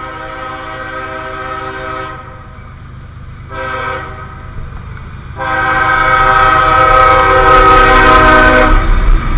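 A CSX freight locomotive's multi-chime air horn sounds a long blast that ends about two seconds in, then a short blast, then a final long blast that is the loudest, the ending of a grade-crossing horn signal. Near the end, the low rumble of the approaching locomotive builds under the horn.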